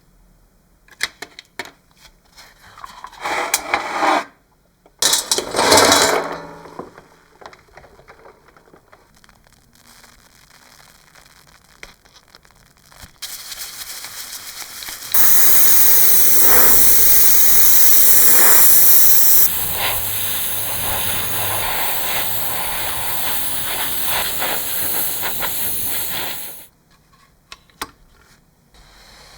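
Two short bursts of working noise, then a loud, steady hiss of a spray or air jet that starts about halfway through, runs for about eleven seconds and cuts off suddenly.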